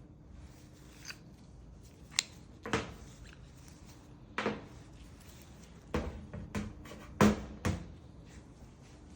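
Air pump being taken apart by hand: a series of sharp clicks and knocks of its parts being handled and pried apart, the loudest a little after seven seconds in.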